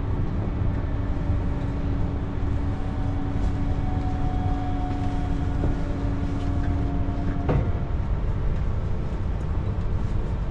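French TER regional train running on the rails, a steady low rumble heard from inside the carriage, with a steady hum from the train's equipment that cuts off about three quarters of the way through.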